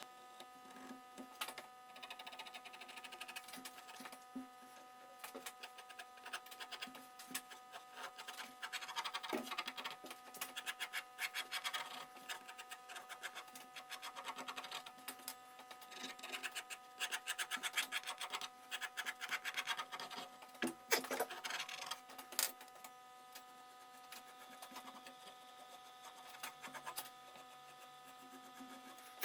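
Rapid scratching and rubbing strokes of hand abrasive work on the rusty axe's metal, coming in spells and heavier through the middle stretch, over a faint steady hum.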